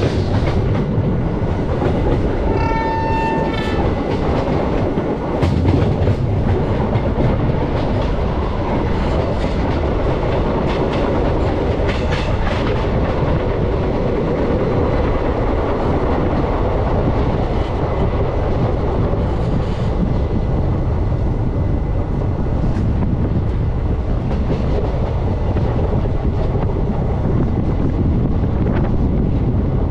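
Passenger coaches running over the rails with a steady rumble and clatter, and the WAP7 electric locomotive's horn sounding once, briefly, about three seconds in.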